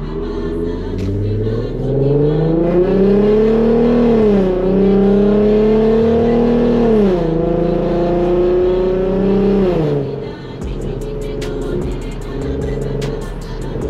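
Infiniti Q50's V6 with an aftermarket Ark exhaust pulling hard through the gears: the engine note climbs, drops at two upshifts, and climbs again until the throttle is lifted about ten seconds in. On the overrun the exhaust then crackles and pops in quick succession, the burble of its flame map tune. Music plays underneath.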